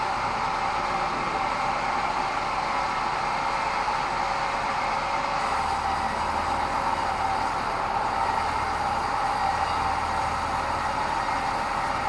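Band sawmill running steadily: a constant whine over a rushing noise. A low hum joins about five and a half seconds in.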